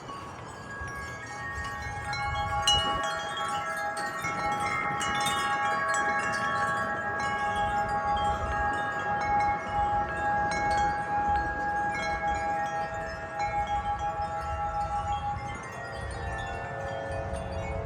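Several wind chimes ringing together in the wind, many long overlapping tones building up about a second in and thinning out near the end, with a low rumble of wind on the microphone underneath.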